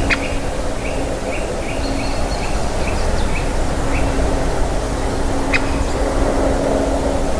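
Bird calling in a quick series of short, sharp notes, about three a second, which stop about four seconds in. Two sharp knocks, one at the start and one near the end, over a steady low hum and loud background noise.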